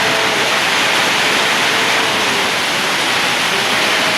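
Heavy rain pouring down in a downpour with strong wind, a loud, steady hiss.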